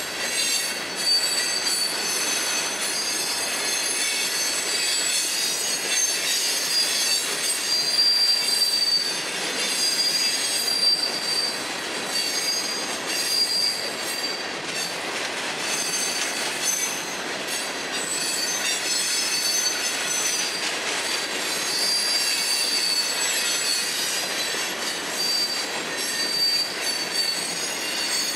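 FEC freight train of hopper cars rolling steadily past, its steel wheels squealing in high, wavering tones over the continuous rattle and rumble of the cars and the click of wheels on the rails.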